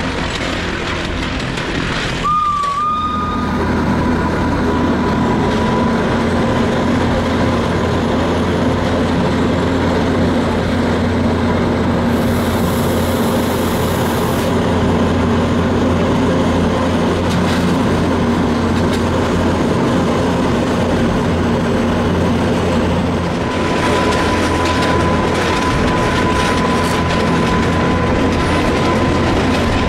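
Electric rack-railway train running, heard on board: a steady rumble of the running gear. A steady high whine comes in about two seconds in, fades a few seconds later, and returns for the last six seconds.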